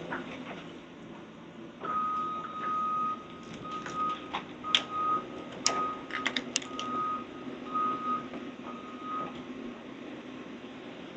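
Backup alarm on heavy demolition machinery: a series of same-pitch beeps of uneven length, roughly one a second, over a low engine hum. A few sharp knocks and clatters come in among the beeps.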